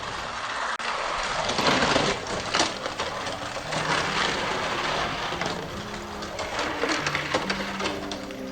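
Die-cast toy trucks rolling down a track, a dense continuous rattle of small wheels and metal bodies.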